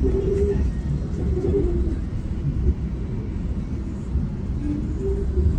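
Low steady rumble of a GO train, with several short pigeon coos over it near the start, about a second and a half in, and again near the end.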